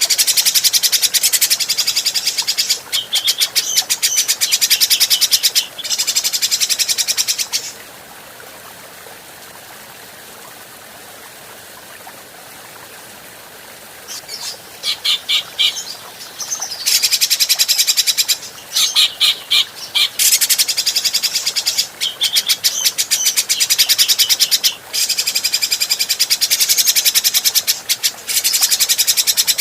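Grey-cheeked bulbul (cucak jenggot) calling in long bouts of fast, high-pitched repeated notes, with a pause of about six seconds near the middle where only a faint hiss remains.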